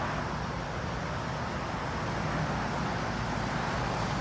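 A GMC Savana cutaway box truck's engine idling steadily, under a steady outdoor wash of noise.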